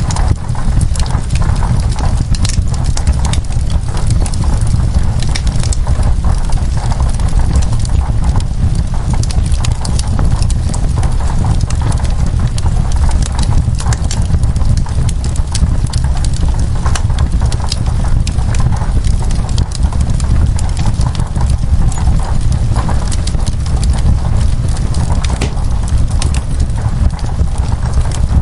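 Wood fire crackling, with frequent irregular sharp pops over a steady low rumble, mixed with steady rain.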